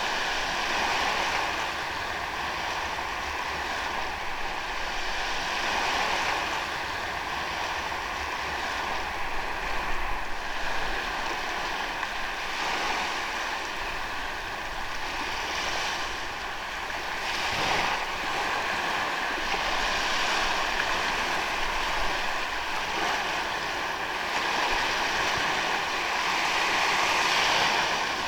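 Ocean waves washing onto a sandy beach, the surf swelling and ebbing every few seconds in a steady wash.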